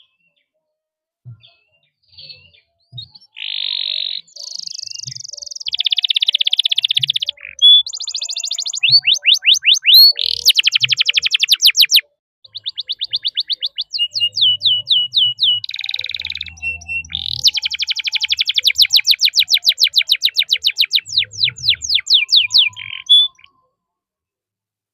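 Domestic canary singing a long, varied song. It moves from buzzy rolled phrases into fast runs of repeated whistled notes that sweep down, about ten a second: the 'cuit cuit' and long 'roll' of a gacor canary in full song.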